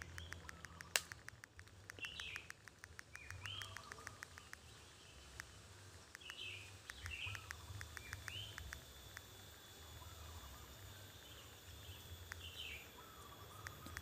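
Faint short chirps of small birds, a single note or a pair every second or two, over runs of fast faint clicks near the start and again near the end.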